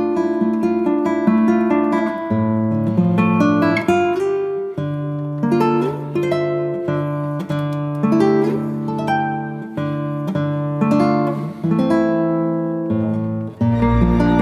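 Background music: plucked acoustic guitar playing a melodic line of picked notes, with a soft sustained pad coming in near the end.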